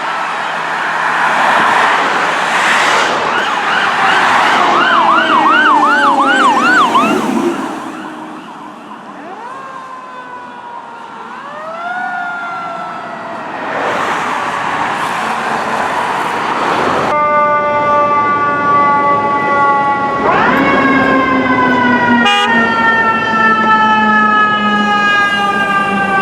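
Fire apparatus sirens responding: a wail and then a fast yelp over the noise of a passing vehicle, a quieter stretch of rising wails, then a siren with a deep many-toned sound that rises quickly and falls away slowly near the end.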